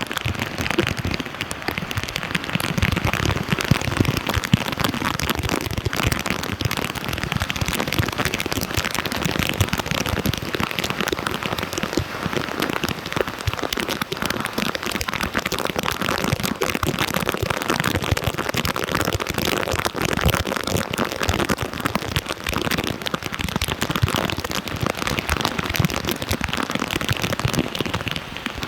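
Steady, dense crackling splash of flood water, with no pause or change.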